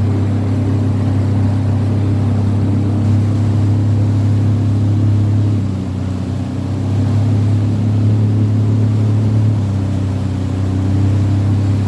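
Jet ski engine running steadily under way. The revs ease off slightly about six seconds in, then pick back up.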